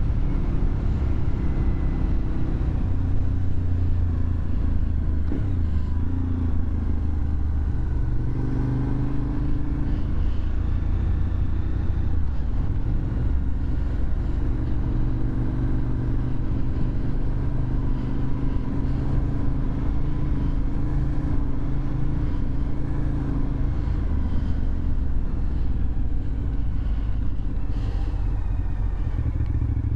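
2001 Suzuki TL1000R's V-twin engine running through a LeoVince aftermarket exhaust while riding. The engine note holds steady stretches and shifts pitch several times as the revs change.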